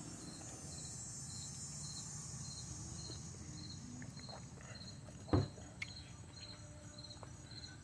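Cricket chirping steadily, about two short high chirps a second, over a steady high insect buzz. A single dull thump about five seconds in.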